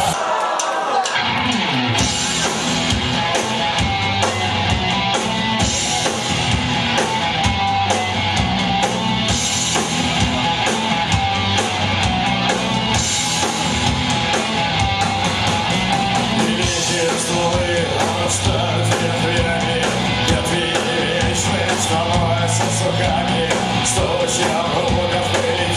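Punk rock band playing live and loud: distorted electric guitars, bass and drums with crashing cymbals, an instrumental stretch without recognisable lyrics. The bass and drums briefly drop out right at the start.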